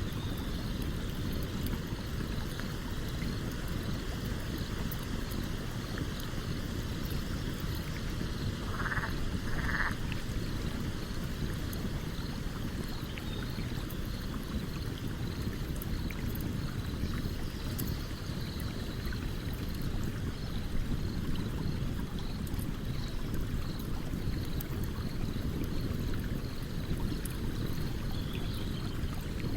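Campfire crackling beside a flowing stream: a steady low rush of water with sparse small crackles. Two short calls sound about nine seconds in, and a faint regular chirping runs through.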